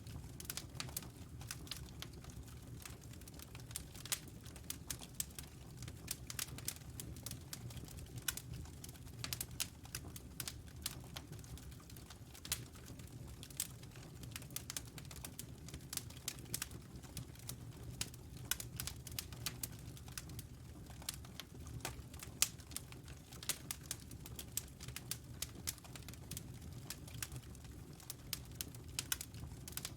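Wood fire crackling and popping in a fireplace: irregular sharp snaps scattered over a steady low rumble of the flames.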